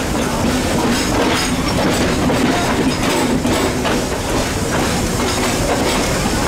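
Train behind a 0-6-0 steam locomotive rolling along the track, heard from the car coupled behind the tender: a steady rumble and rattle of wheels on rail, with scattered clicks.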